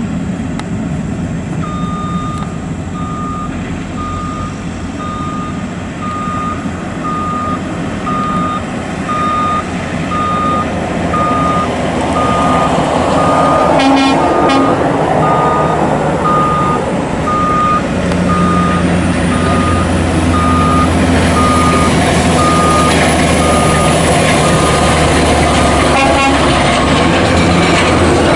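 Truck reversing alarm beeping at one steady pitch, about one and a half beeps a second, over a heavy diesel truck engine running, which grows louder about two-thirds of the way through.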